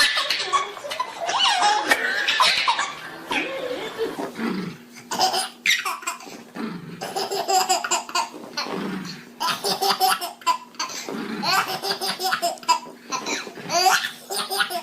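A baby laughing hard, in repeated short fits.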